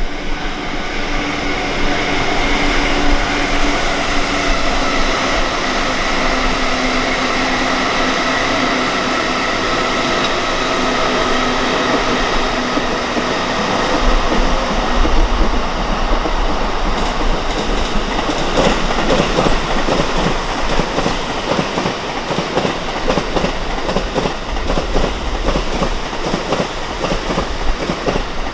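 Train running past on the rails: a steady whine for the first half, then a fast clickety-clack of wheels over rail joints from about two-thirds of the way through.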